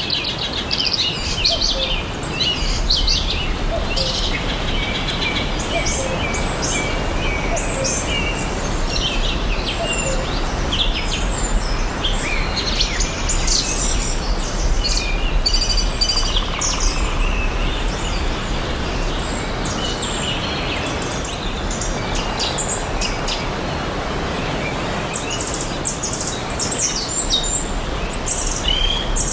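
Forest birdsong: many birds chirping and trilling at once in a dense, continuous chorus over a steady background hiss.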